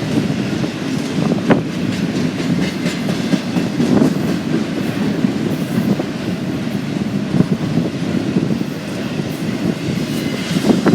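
Freight train cars rolling past at close range: a steady rumble of wheels on rail with occasional sharp clacks.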